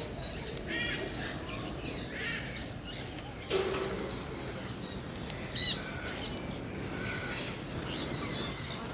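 Many birds chirping and calling together in an aviary, short overlapping calls throughout, with louder calls about three and a half seconds and about six seconds in.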